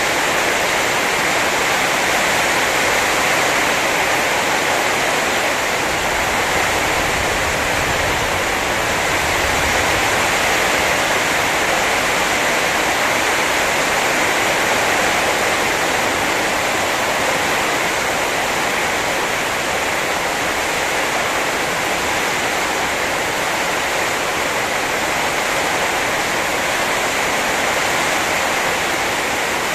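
Heavy rain pouring down steadily in a rainstorm, a dense, unbroken hiss.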